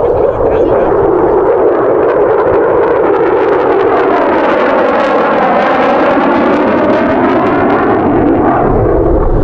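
F-22 Raptor's jet engines, loud and steady as the jet flies past, with a sweeping shift in tone through the middle of the pass.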